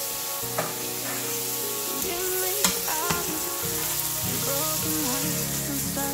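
Ackee and saltfish sizzling as it fries in a frying pan while a utensil stirs it, knocking and scraping against the pan a few times.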